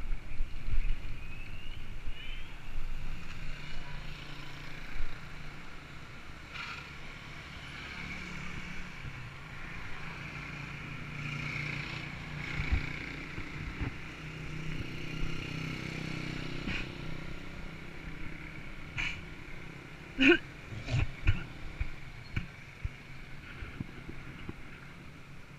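Road vehicle noise: a steady engine hum from passing or nearby traffic, with a few sharp knocks about three quarters of the way through.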